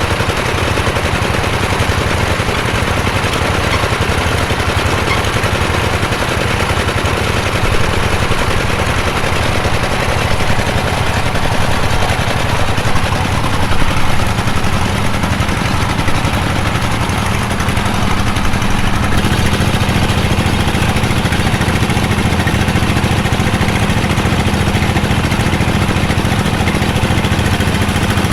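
Engine of a bore pile drilling machine running steadily, with a fast even pulsing, its note changing about two-thirds of the way through.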